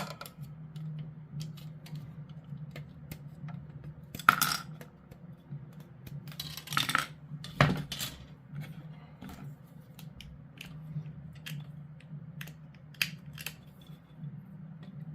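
Plastic kit parts being snipped from their sprue with hobby clippers: sharp clicks and light clatter of plastic on the table, loudest about four seconds in and again around seven to eight seconds in, over a steady low hum.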